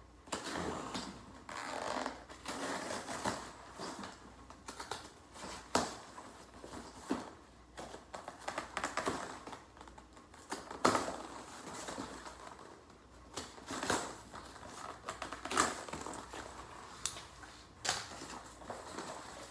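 A box of packaged fishing baits being opened and unpacked by hand: irregular rustling and scraping of packaging, broken by sharp clicks and knocks.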